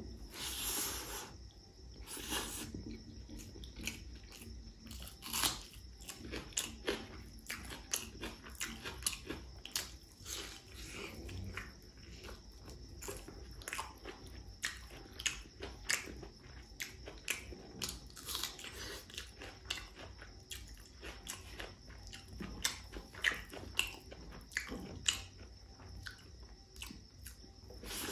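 A man chewing and biting mouthfuls of rice and spicy pork curry eaten by hand: irregular wet mouth clicks, smacks and crunchy bites, several a second.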